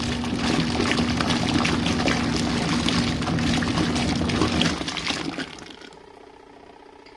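Small RV washing machine agitating during a cold-water rinse: a steady motor hum with water churning in the tub. It winds down about five seconds in and pauses, as the agitator does between spins.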